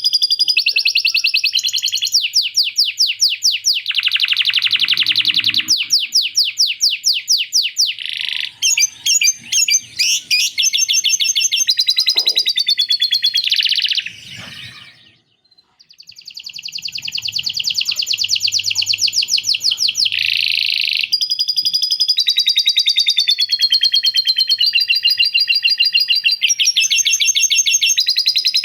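A domestic canary singing a long, loud song of fast trills and rolls, including chattering phrases copied from a lovebird. The song breaks off briefly about halfway, then resumes.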